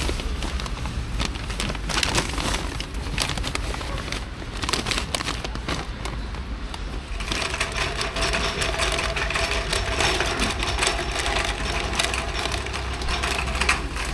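Wind rumble and dense crackling on the microphone of a Piaggio MP3 300 scooter while riding, with a faint steady engine tone coming in about halfway.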